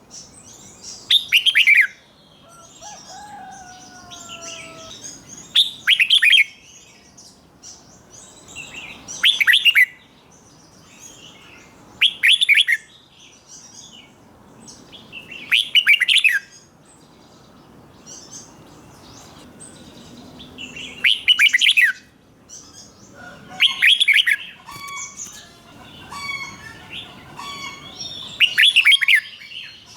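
Red-whiskered bulbul song: loud, short warbled phrases come about every three to five seconds. Softer calls from other birds fill the gaps, and a rapid series of short repeated notes runs through the last few seconds.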